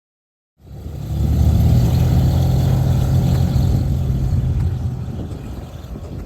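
Light aircraft's piston engine heard from inside the cabin, a loud steady drone that cuts in about half a second in and eases off slightly near the end.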